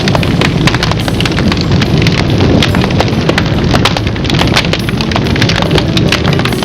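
Large bonfire of branches burning, with dense, rapid crackling and popping over a steady low rumble.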